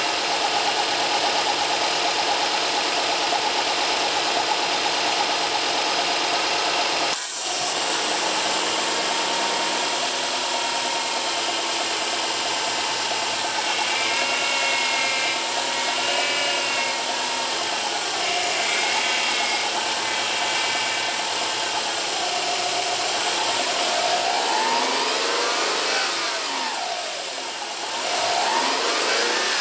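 Subaru Impreza 1.5 engine running with a power-steering moan or whine, air conditioning on. The sound breaks briefly and changes about seven seconds in, and near the end the whine rises and falls in pitch. The moan comes from air drawn into the power-steering system past a worn rubber ring on the return hose at the pump.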